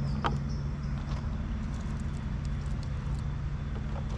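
A motor droning steadily in the background, with scattered light clicks and crackles over it.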